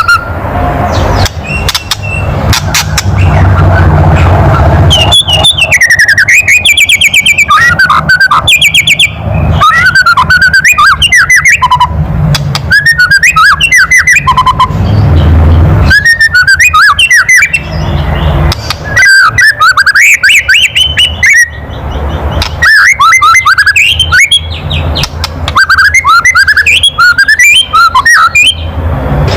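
White-rumped shama (murai batu) giving its loud, harsh 'kretekan' rattling call: rapid dry crackles mixed with short whistled notes that swoop up and down, in repeated bouts with brief pauses. This is the bird's agitated, aggressive call.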